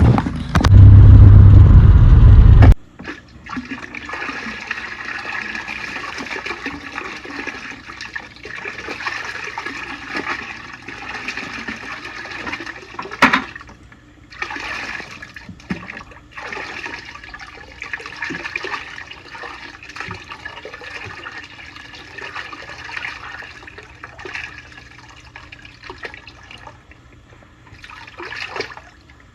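Water bubbling and sloshing steadily in a bait cooler of live fish, with scattered splashes. A loud, low rumble lasts about two seconds near the start.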